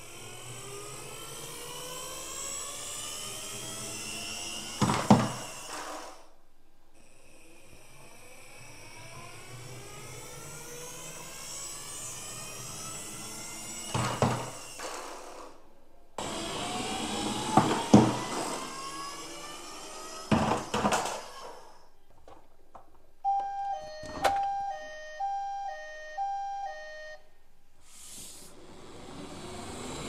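Toy ambulance's friction motor whirring and rising in pitch again and again as the toy is pushed and run, broken by several sharp knocks. About three-quarters of the way through, its electronic siren sounds for a few seconds, switching back and forth between two notes.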